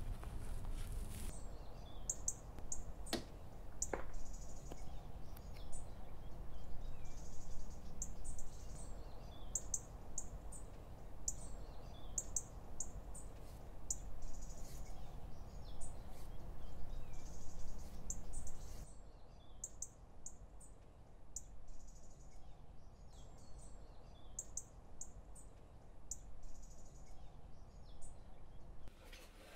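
Outdoor ambience of small birds chirping, short high chirps coming again and again over a low steady rumble, with two sharp knocks about three and four seconds in.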